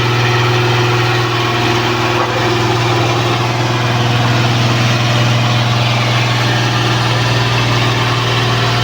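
L&T Case 1107 vibratory road roller's diesel engine running steadily with a loud, even low hum.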